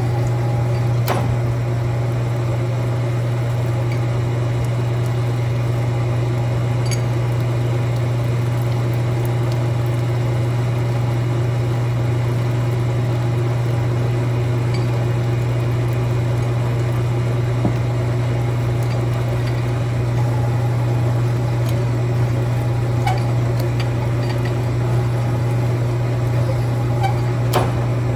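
A machine's electric motor running with a steady low hum, with a few faint clicks over it.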